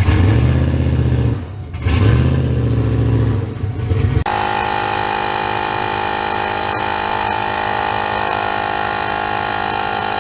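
Vehicle engines running, their pitch and level rising and falling for about four seconds. Then an abrupt cut to a steady, unchanging mechanical drone with a strong mid-pitched tone.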